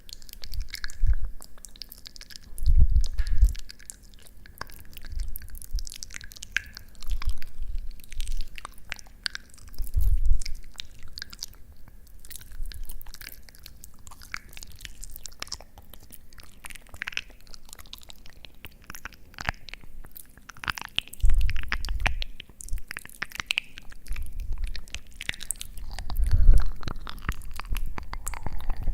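Close-miked ASMR sounds: irregular crisp clicks and crackles, with soft low thumps every few seconds, the strongest about 3, 10, 21 and 26 seconds in.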